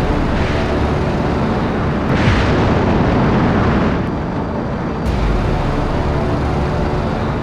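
Heavy rumbling explosions, with fresh blasts starting suddenly about two seconds and five seconds in.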